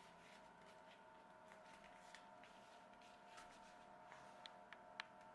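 Faint rustles and small clicks of a sheet of paper being handled and creased as its flaps are folded, over a low steady hum.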